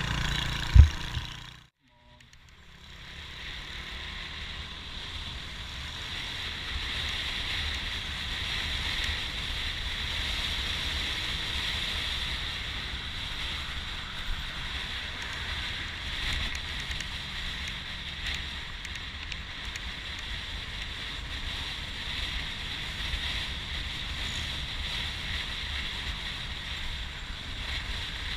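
Wind rushing and buffeting over the microphone on a Motorstar Nicess 110 motorcycle ridden at speed during a top-speed run, with the engine's sound buried under it. A sharp thump about a second in is followed by a second of near silence before the wind noise builds back up.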